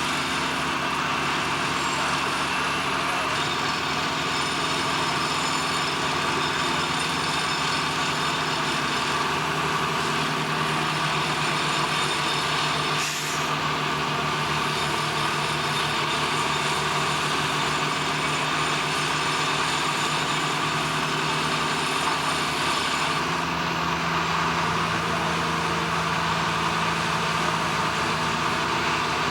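Steady drone of a running engine or heavy machinery, its pitch shifting a few times, with a single sharp click about halfway through.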